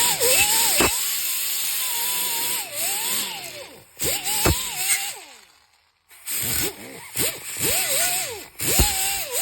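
A handheld power tool running in spurts, its motor whine rising and falling as the trigger is worked, over a strong hiss, with a few sharp knocks between runs. It stops briefly about six seconds in, then runs again.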